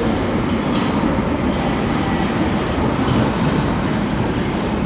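Steady running noise of a train in motion, with a brighter, high-pitched stretch of wheel noise from about three seconds in.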